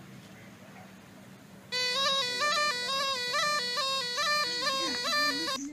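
Snake charmer's reed pipe (pungi) playing a nasal, bagpipe-like melody of short stepping notes, starting about two seconds in after a quiet stretch and cutting off abruptly near the end.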